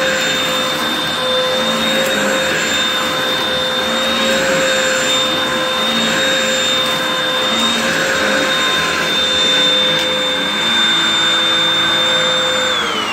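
Upright vacuum cleaner running with a steady, noisy motor whine. Near the end it is switched off and the whine falls in pitch as the motor spins down.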